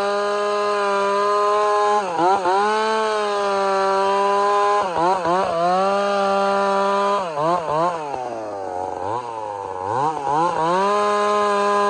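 Two-stroke chainsaw with a long 32-inch bar running at full throttle while cutting firewood. Its pitch dips briefly each time the chain bites into the wood, and about eight seconds in the engine lugs down hard for about two seconds under the load of the cut before it revs back up.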